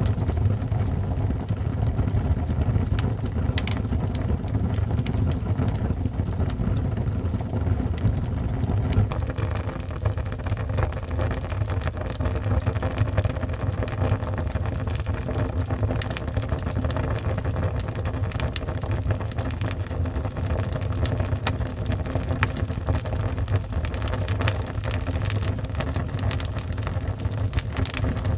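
Wood fire burning in a fireplace: a steady low rumble with scattered crackles and pops, which come more often from about nine seconds in.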